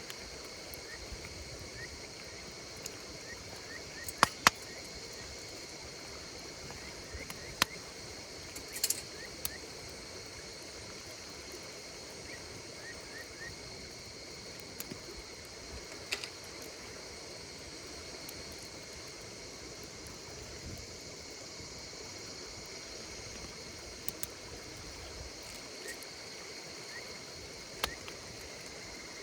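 Wood campfire crackling with a few sharp, isolated pops, two of them close together about four seconds in, over the steady, high-pitched chirring of crickets and other insects.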